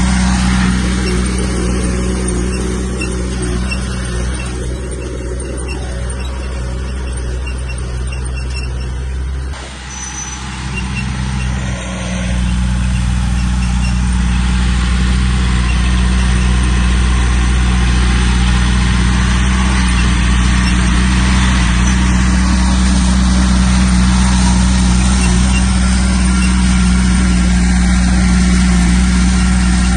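Komatsu bulldozer's diesel engine running steadily under load. It dips in level for a couple of seconds about a third of the way in, then comes back up and holds steady.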